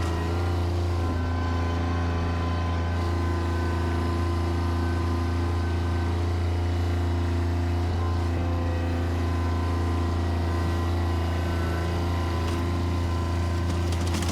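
Bobcat tractor's diesel engine running steadily at working speed, a constant low drone with a steady whine layered above it.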